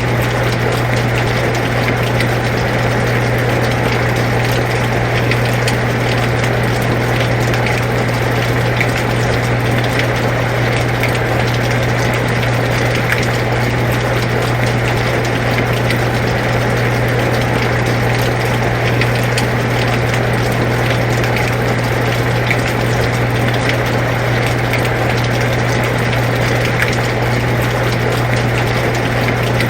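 Air conditioner running with a steady low hum, mixed with the even hiss of falling rain and scattered drop ticks.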